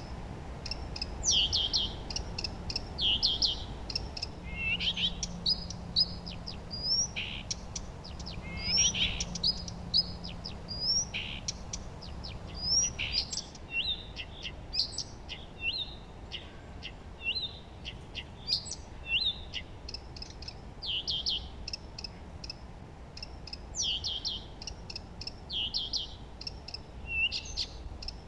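Songbirds singing: short high chirps and quick trilled phrases, several repeated again and again and overlapping, over a steady low background rumble.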